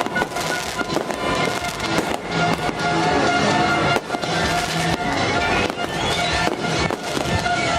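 Fireworks and firecrackers going off in rapid, irregular bangs and crackles, with a rising whistle of a rocket about five seconds in, over loud music.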